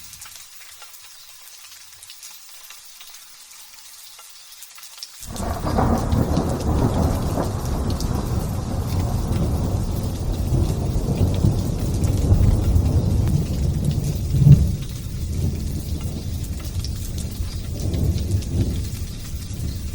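Light rain hissing. About five seconds in, a long roll of thunder breaks in suddenly and keeps rumbling low and heavy, swelling again a few times, with its loudest jolt around two-thirds of the way through.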